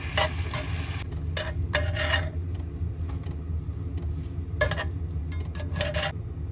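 Elk fajita meat sizzling in a frying pan as a utensil stirs and scrapes against the pan several times, over a steady low hum.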